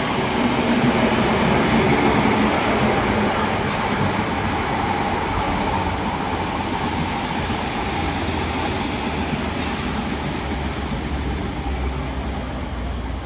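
Train running beside the station platform, loud at first and fading gradually, with a few short hisses along the way.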